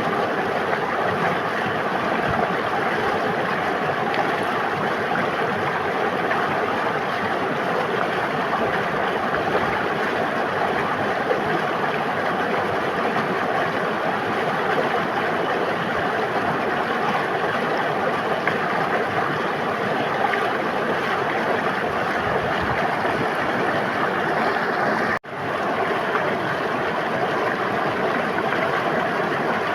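A river flowing, a steady rush of running water. It cuts out for an instant about 25 seconds in, then carries on unchanged.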